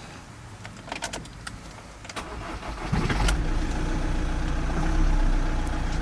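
A few sharp clicks, then a Ford Transit van's engine starts about three seconds in and settles into a steady idle.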